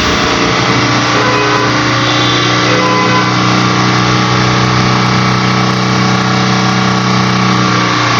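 Car engine held at a steady raised speed, revved to bring the cold engine up to temperature. The pitch stays level, and the engine drops off its held revs near the end.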